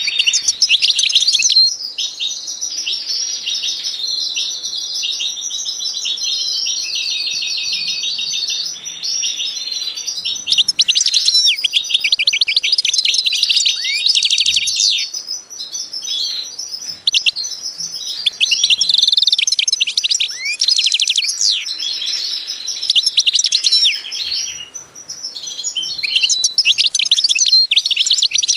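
Small birds chirping and twittering continuously, many quick calls and trills overlapping, in busier stretches that come and go.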